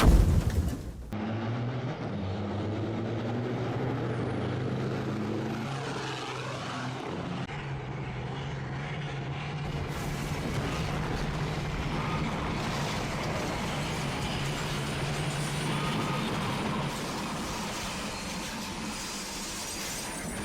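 A steady engine drone with a low hum, like a motor vehicle or propeller aircraft running.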